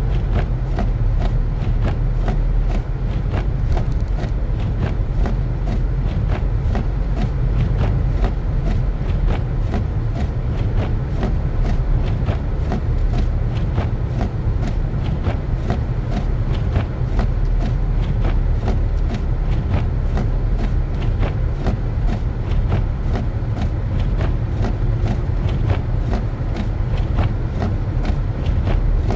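Car driving on a snowy road: a steady low rumble of engine and road noise, with many small crackles all the way through.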